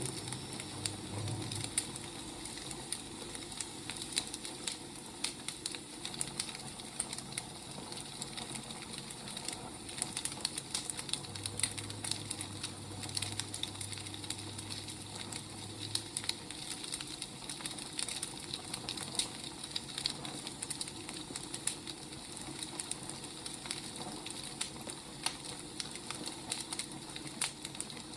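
Firewood burning, with steady irregular crackles and pops over a soft hiss.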